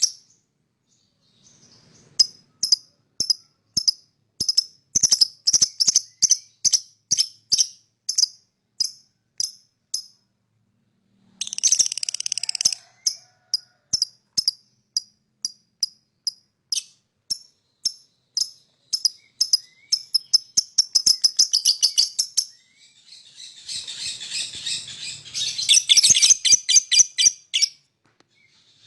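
Lovebird chirping: a long series of sharp, high chirps, about two or three a second, with a short pause about a third of the way in. The chirps then come faster and run together into a dense chatter near the end, the long 'ngekek' song used to lure other lovebirds into singing.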